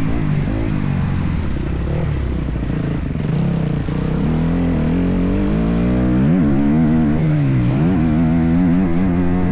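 Motocross bike engine running under load while being ridden, its pitch holding, falling and climbing with throttle and gear changes, with two quick dips and rises in revs in the second half.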